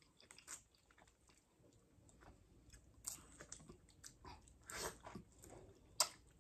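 Faint, wet mouth sounds of very juicy ripe mango flesh being bitten and chewed off the skin: irregular soft smacks and sucking clicks, with a sharper smack about six seconds in.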